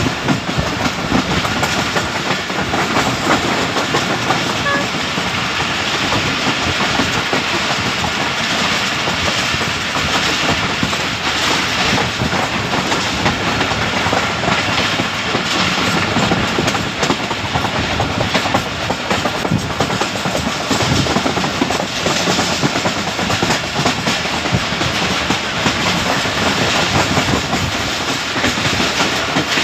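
Jaffar Express passenger train running along the track: a steady rumble and rush of wheel-on-rail noise with the clickety-clack of wheels over rail joints.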